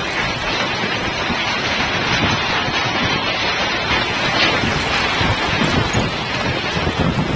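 Hailstorm: hailstones pelting down in a dense, steady clatter of countless small impacts.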